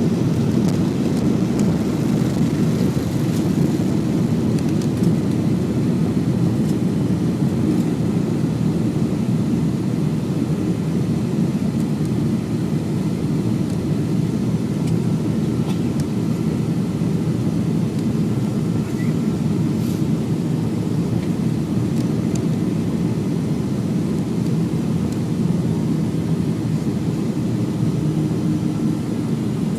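Boeing 737-300 jet engines and airflow making a loud, steady noise that holds level throughout, with no rise or fall in pitch.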